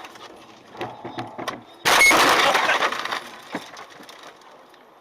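Vehicle collision: a few sharp knocks, then about two seconds in a sudden loud crash noise that dies away over a second or so.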